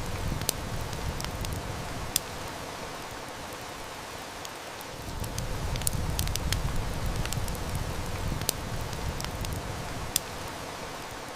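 Heavy rain hissing steadily, with the sharp pops and snaps of a crackling wood fire now and then, over a low rumble that swells and fades.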